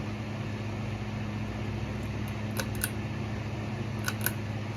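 Hampton Bay Landmark ceiling fan switched on but not turning: a steady low electrical hum, with two pairs of light clicks in the second half. The owner takes the fan for dead with a burned-out motor.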